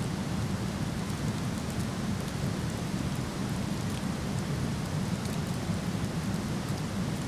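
Steady rushing of a waterfall, with occasional faint crackles from a wood fire.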